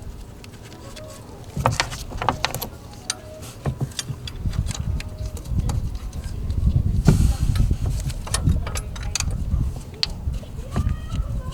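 Metal tools and bolts clicking and knocking as the alternator bracket's bolts are started, with a low uneven rumble in the second half.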